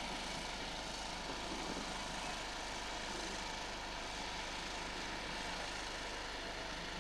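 A propeller aircraft's engine running steadily, holding an even drone.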